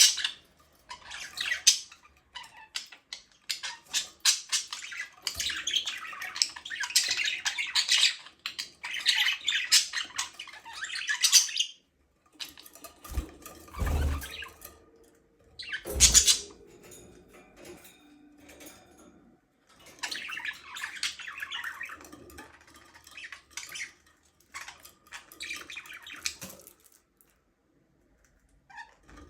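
Budgerigars chattering and chirping in rapid, high bursts with short pauses between them, and two thumps about two seconds apart around the middle.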